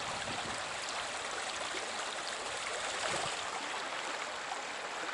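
Water of a trout stream flowing steadily, a continuous rushing noise.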